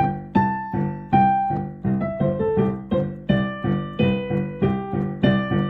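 Piano-like keyboard music: single notes struck in a steady rhythm, about two to three a second, each ringing and dying away over a repeated low accompaniment.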